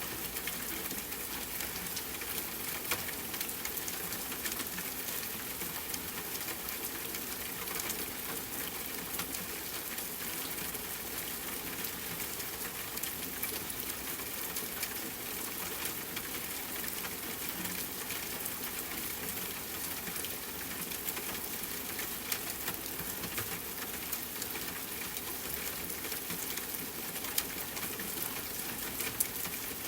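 Rain falling steadily on a tent with a campfire crackling: a constant hiss dotted with small sharp pops, a few of them louder.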